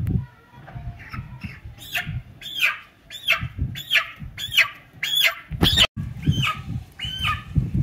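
A bird calling over and over: about a dozen short calls, each rising and falling in pitch, roughly every two-thirds of a second. Low thumps and rumble run underneath.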